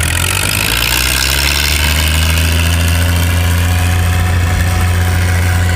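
An engine running steadily at a constant low speed, with a deep, even hum.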